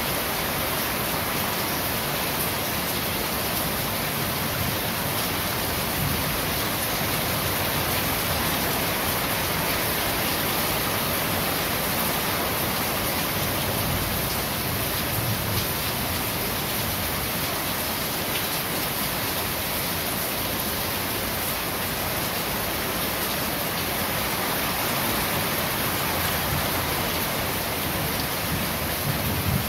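Steady rain falling on corrugated roof sheets, an even hiss that holds at one level throughout.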